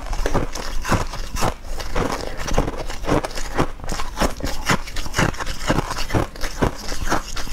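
Close-miked chewing of a soft matcha-dusted sweet cake with the mouth open: wet smacking mouth sounds about twice a second.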